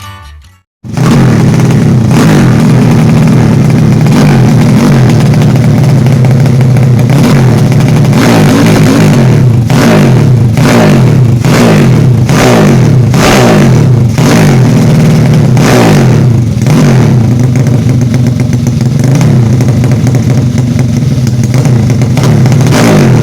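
Yamaha Jupiter motorcycle's single-cylinder four-stroke engine, bored up to 200 cc with a 66 mm piston and 34/29 valves, cutting in abruptly about a second in and revved hard over and over. The pitch swings up and down, with quick sharp blips in the middle.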